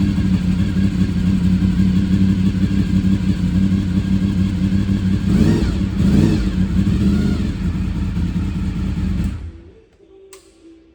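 1997 Honda VFR750F's V4 engine idling, blipped twice in quick succession about five and six seconds in. The engine then stops about nine seconds in, leaving only a few faint clicks.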